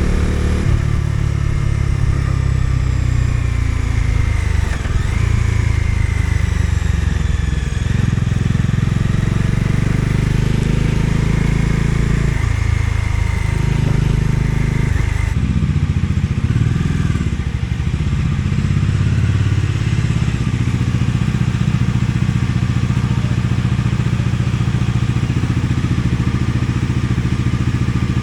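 Bajaj Dominar 250's single-cylinder engine running steadily while the motorcycle is ridden, with a rushing hiss of wind and road over it. The engine note dips briefly about halfway through, and the hiss thins soon after.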